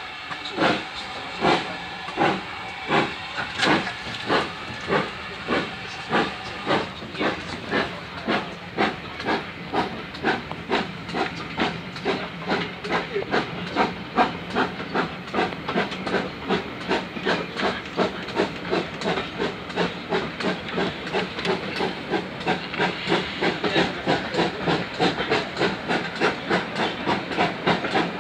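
GWR Manor-class two-cylinder 4-6-0 steam locomotive Foxcote Manor pulling away under steam, its exhaust chuffs quickening steadily from about one a second to about three a second as it gathers speed, with a constant hiss of steam.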